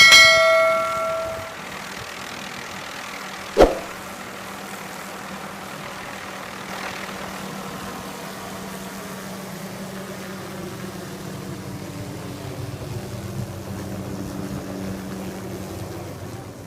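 Steady engine drone of a helicopter hovering. It opens with a ringing metallic clang that dies away over about a second and a half, and there is one sharp knock a few seconds in.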